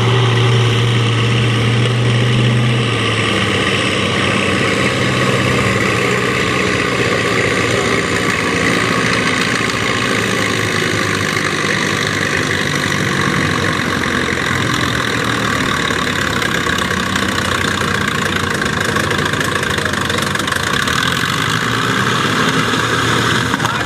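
Farm pulling tractor's diesel engine running loud and steady, its deep note changing about three seconds in.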